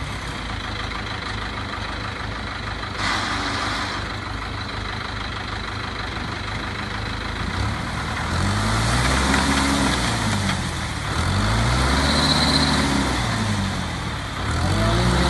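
A farm machine's engine running steadily, then revving up and back down three times, each rise and fall lasting a couple of seconds.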